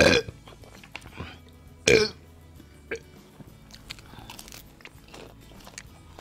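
A man biting and chewing crispy KFC fried chicken close to the microphone, with small crunches and mouth sounds throughout. Two short, louder vocal noises come at the start and about two seconds in. Faint background music runs underneath.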